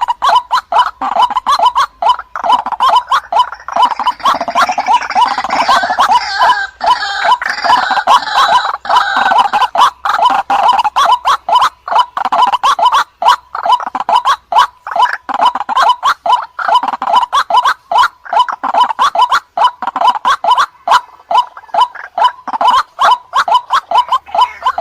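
White-breasted waterhen (ruak-ruak) lure-call recording: a continuous run of rapid, harsh croaking notes, several a second.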